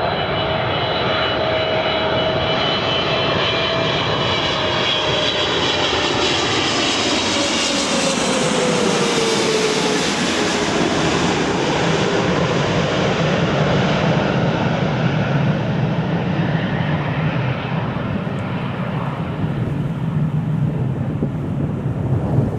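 Boeing 777-300ER's GE90 turbofan engines on a landing jet: a high whine and engine tones that drop in pitch about eight to ten seconds in as the aircraft goes by, followed by a steady low roar.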